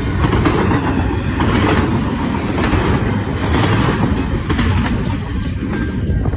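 Fast-moving double-stack intermodal freight train rolling past close by: a loud, steady rush and rumble of wheels on rail. A faint thin whine starts near the end.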